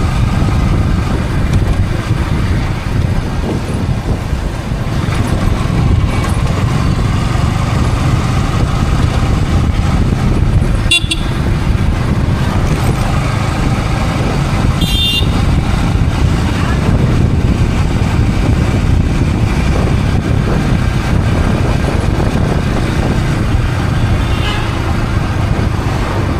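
Yamaha R15 V3 motorcycle riding through traffic, heard from a helmet camera: steady wind rush on the microphone over the engine running. Two short vehicle-horn toots come about 11 and 15 seconds in.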